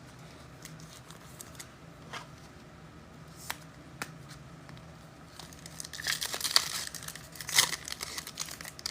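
Foil wrapper of a pack of trading cards crinkling and tearing as it is ripped open. A few soft clicks come first; the crinkling starts about five and a half seconds in.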